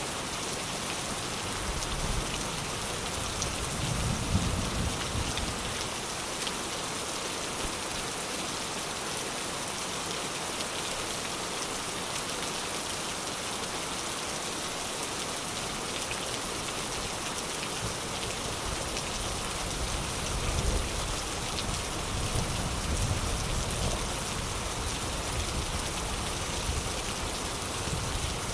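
Steady rain falling and pattering on surfaces. Low rumbles of distant thunder swell about four seconds in and again about two-thirds of the way through.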